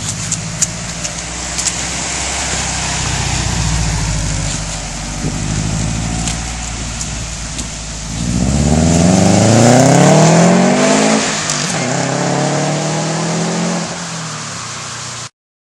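2007 Subaru WRX's turbocharged flat-four running through a COBB catted downpipe, COBB midpipe and SPT catback exhaust: a steady low note for about eight seconds, then the revs climb sharply, dip briefly near eleven seconds, and hold at a higher note before the sound cuts off.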